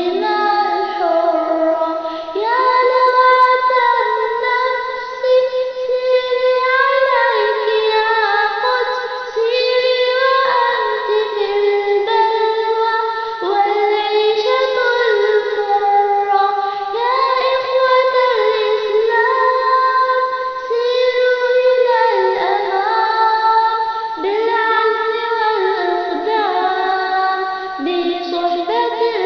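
A young girl singing an Arabic nasheed, a continuous melodic line of held notes that glide between pitches.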